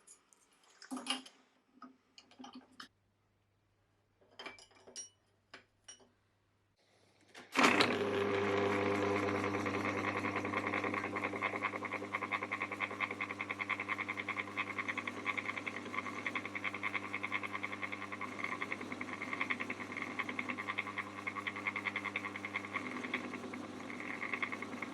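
A few light clicks and knocks, then about seven and a half seconds in a Dore Westbury milling machine starts up suddenly and runs steadily, its motor humming, as a 7 mm end mill cuts a flat in a small metal part.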